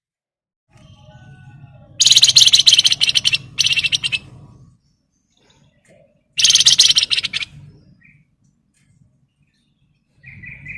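Flamboyan songbird singing two loud, rapid rattling trills, the 'ngebren' burst of song: the first about two and a half seconds long, the second about a second, with a faint low hum underneath.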